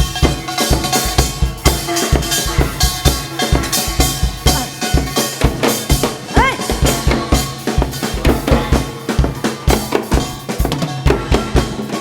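Live Korean traditional-fusion ensemble playing a fast, drum-driven passage: rapid, evenly spaced drum strokes with heavy low beats. A short high note slides upward a little past halfway.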